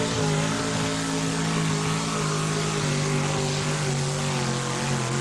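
Pulling truck's 650 cubic inch Chevrolet V8 at full throttle, dragging the weight-transfer sled. The engine's pitch sags a little about three seconds in as the load builds.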